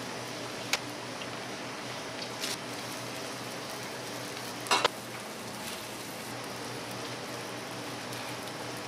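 Food sizzling steadily on a griddle, with a few sharp utensil clicks; the loudest is a short clatter about five seconds in.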